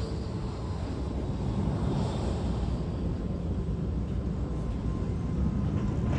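Jet airliner engines running with a steady low rumble and a faint high whine.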